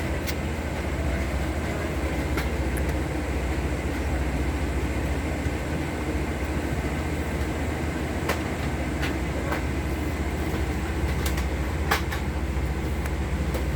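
Steady cabin noise inside a Boeing 787 airliner: a constant low rumble with a few light clicks.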